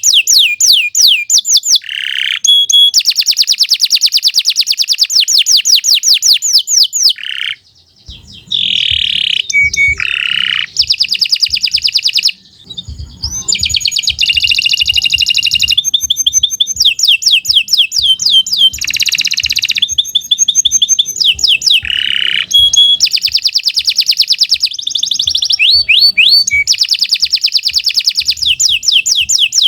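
Domestic canary singing a long, loud song of fast trills: runs of rapid repeated notes and rolls that change pitch, with short breaks and a brief pause about eight seconds in.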